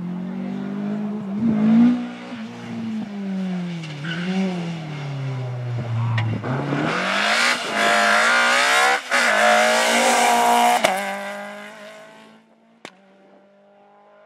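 Rally car engine revving up and down through gear changes, dropping low and then accelerating hard, with a loud rush of engine and tyre noise. It fades away quickly near the end as the car drives off.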